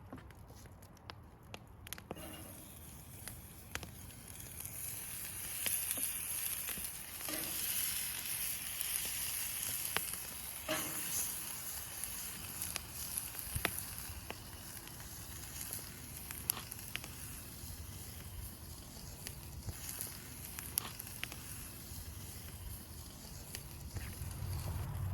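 Lamb chops sizzling in a cast-iron skillet over a wood fire, with scattered sharp pops and crackles. The sizzle comes in about two seconds in and is loudest in the middle.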